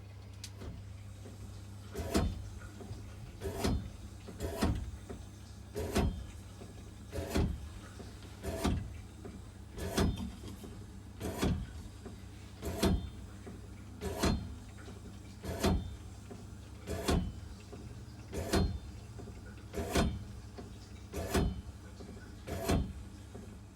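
Repeated banging in the water plumbing: sharp knocks at an even pace of about one every second and a half over a steady low hum. This is the banging noise that comes with the cold water problem.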